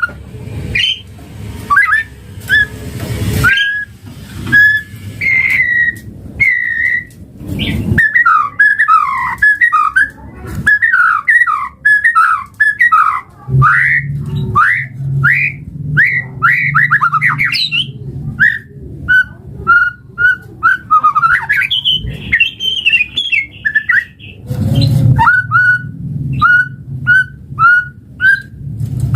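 White-rumped shama (murai batu) singing: clear whistled notes, a fast run of varied sliding phrases in the middle, then a string of short repeated whistles about two a second near the end.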